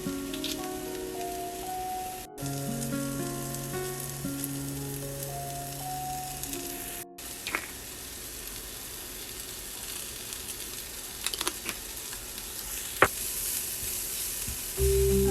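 Background music of light, held notes for about the first seven seconds. The music cuts off and is followed by food sizzling in a frying pan, with a few sharp taps from a utensil.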